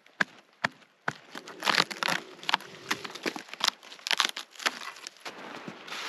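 Dry tree bark being torn and broken off by hand: irregular crunching and rustling with sharp cracks.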